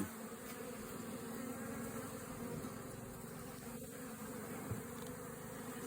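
Honeybees from an opened hive buzzing steadily, the hum of many bees at once.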